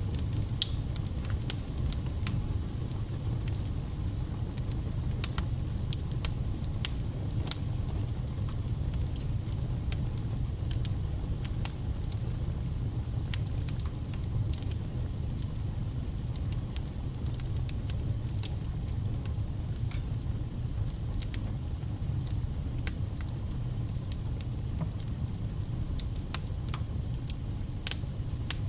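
Wood fire burning: a steady low rumble of flames with frequent sharp crackles and pops from the burning logs, coming at irregular intervals.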